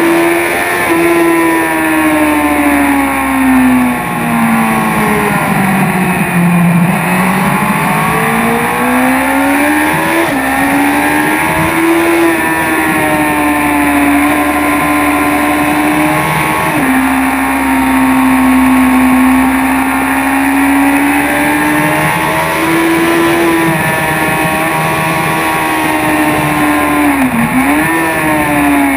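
BMW S1000RR's inline-four engine heard from on board the motorcycle at track speed. Its pitch sinks through the first few seconds, then climbs as the bike accelerates, with sudden steps in pitch around ten and seventeen seconds in and again near the end as gears change. Wind rushes steadily past throughout.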